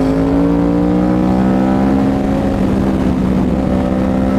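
Yamaha R1's cross-plane inline-four engine through a loud Toce full-system exhaust, pulling steadily under way with its note rising slowly as the bike gains speed.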